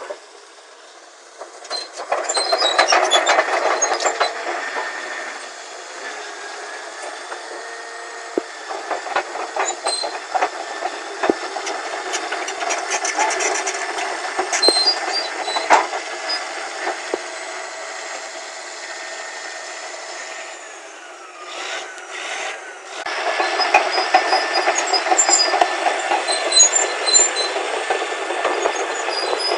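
Caterpillar D8N crawler dozer working: its diesel engine running under load with the steel tracks and undercarriage clanking and rattling. It gets louder in stretches and dips briefly about three quarters of the way through.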